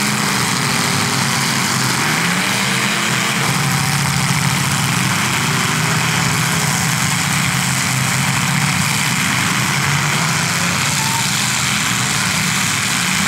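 Several demolition derby cars' engines running and revving together, their pitches wandering up and down over a steady wash of noise.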